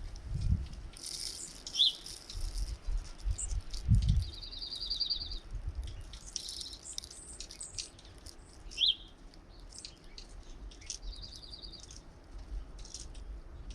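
Small songbirds at a feeder chirping and chattering, with a rapid trill of about a second repeated twice and short high call notes. Low rumbles of wind on the microphone come near the start and about four seconds in.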